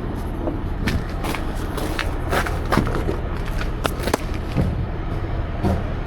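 Heavy truck running with a steady low hum, with sharp clicks and knocks scattered over it.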